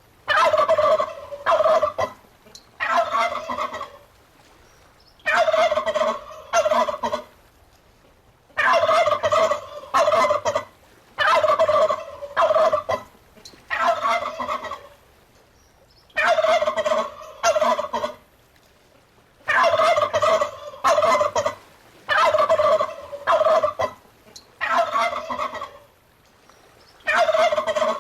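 Domestic turkey gobbling over and over, each rattling gobble about a second long, coming in runs with short pauses between them.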